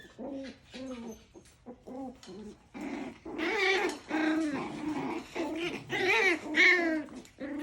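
Six-week-old Coton de Tulear puppies vocalising in play: a rapid run of short, high yips and whines, several a second, with louder squeals about three and a half seconds in and again around six seconds.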